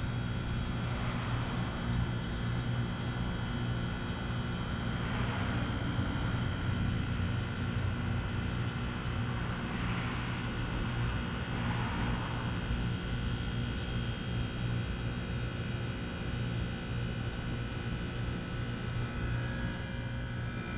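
Trane XR13 2-ton heat pump outdoor unit running with a steady low hum and a faint steady higher tone.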